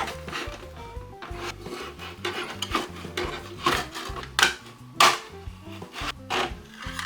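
Irregular rasping and scraping strokes of a hand tool working the RC car body shell, over background music.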